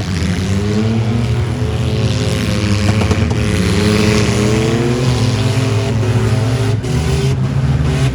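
Mini truck engines running loudly and revving, their pitch rising and falling.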